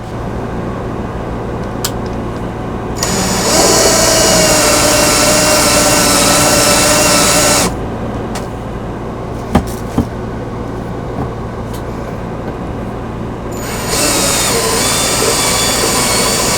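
Power drill with a countersink bit running in two steady spells of about four and a half seconds and three seconds, countersinking screw holes in aluminium square tubing so the screws sit flush. There are two sharp clicks between the spells, over a steady low hum.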